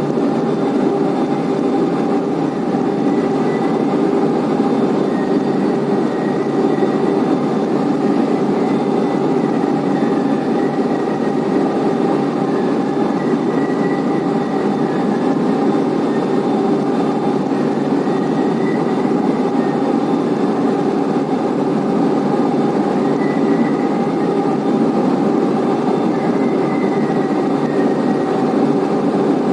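Blast furnace main charging conveyor running: a steady, loud mechanical din with faint high-pitched whines held over it.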